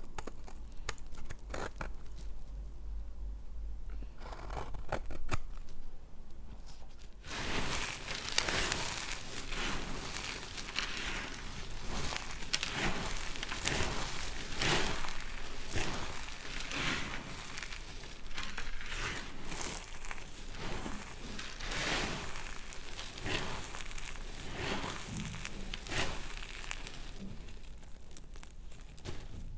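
Knife cutting through a bar of dry laundry soap, the brittle soap crackling and crumbling under the blade. A few separate clicks at first, then, about a quarter of the way in, a dense run of crackling cuts.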